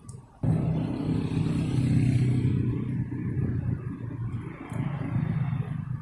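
An engine running steadily at a low, even pitch, cutting in abruptly about half a second in.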